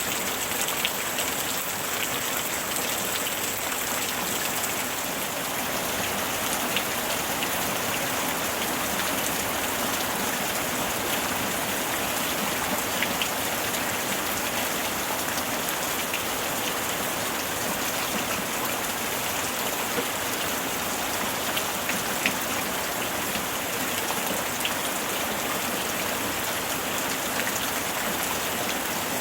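Steady summer rain falling, an even hiss with scattered individual drop ticks.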